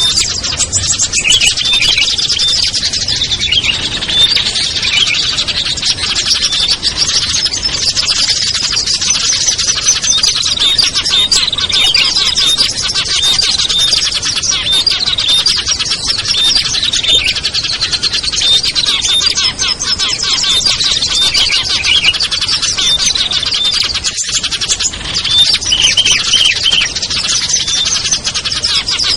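Mixed small-bird lure recording: a dense, unbroken chorus of many small songbirds chirping at once, with rapid high twittering and short sweeping notes repeated over and over.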